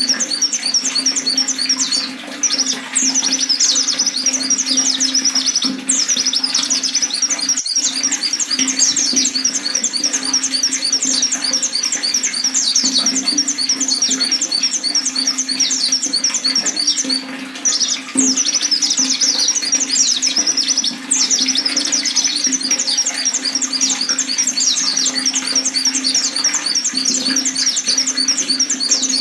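Pleci (white-eye) singing a fast, continuous high twittering song, broken by a few short pauses, over a steady low background hum.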